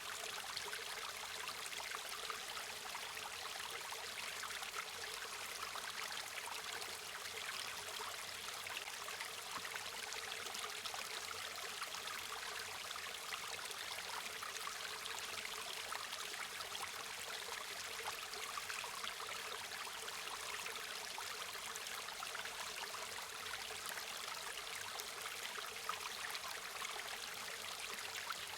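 A river or stream flowing steadily, an even rushing and babbling of water with fine splashing detail.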